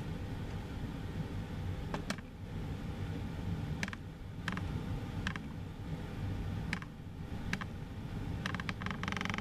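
Low, steady rumble of jet aircraft engines, muffled as if heard through a window, with scattered light clicks.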